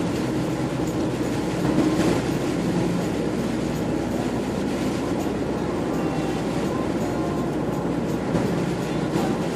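Steady engine drone and road noise heard inside the cab of a moving truck.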